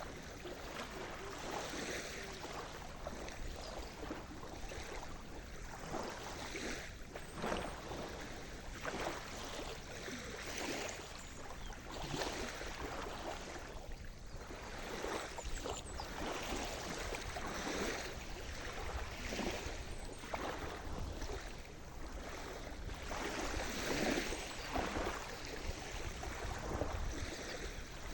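Sea surf: a continuous rush of moving water broken by many short, irregular splashes.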